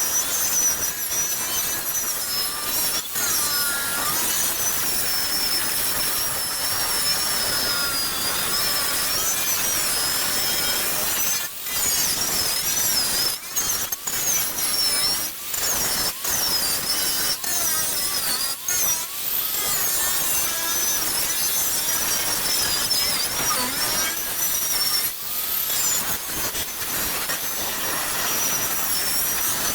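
Draper angle grinder with a wire wheel stripping rust from a car's steel floor pan, running steadily with a high whine that wavers as the wheel is pressed on. Around the middle it briefly drops off several times as the wheel is lifted and moved.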